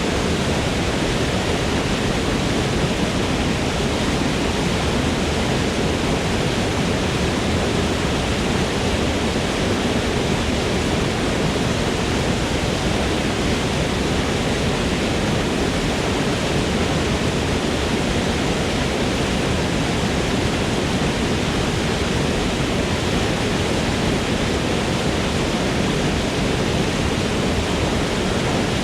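Forest waterfall, water pouring and splashing in a steady, unbroken rush.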